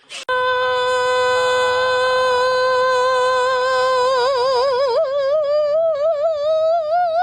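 A voice holding one long sung or howled note: steady at first, then wavering and slowly climbing in pitch from about four seconds in.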